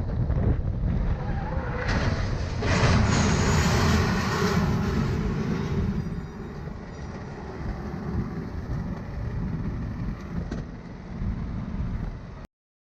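Vehicle driving noise recorded by a dashcam: a steady low road and engine rumble, swelling into a louder rush for a couple of seconds about two seconds in, then settling lower before cutting off abruptly near the end.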